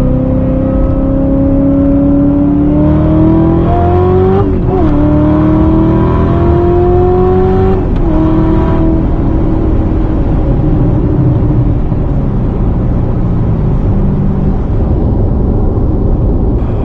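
Supercharged 6.2-litre V8 of a C7 Corvette ZR1 accelerating hard, its pitch climbing through the gears with two upshifts, about four and a half and eight seconds in, then settling into a steady cruise with road noise.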